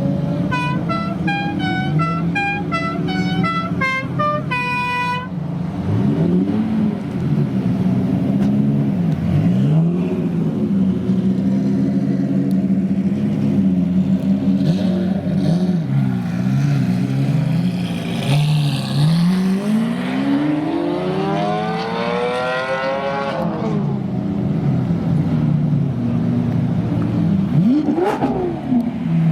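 A group of Lamborghini supercar engines idling and being revved: repeated rev blips through the first half, one long rising rev that peaks and drops away past the middle, and a short blip near the end. It opens with a musical car horn playing a short stepped tune that ends on a held note about five seconds in.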